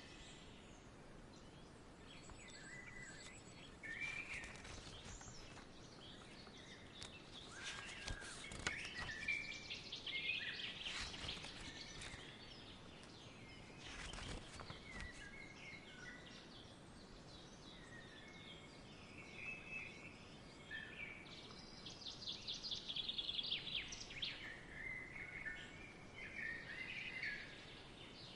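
Small songbirds chirping and twittering on and off over a faint steady outdoor hiss, with a fast trill a little past the middle. Scattered brief crackles come through the middle.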